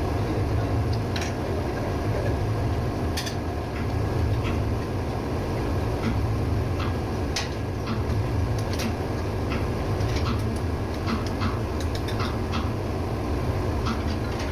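Steady low drone of running ship's engine-room machinery, with scattered sharp clicks and ticks over it.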